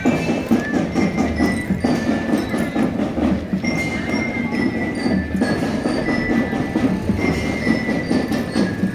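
Marching drum band playing: a dense, rapid clatter of snare drums with a low bass-drum beat about every two seconds, and high ringing bell notes and held tones above.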